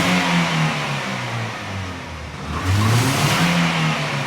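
Toyota Corolla GLi petrol engine revved hard twice with the accelerator floored. Each rev rises sharply, then falls back toward idle, the second about two and a half seconds after the first.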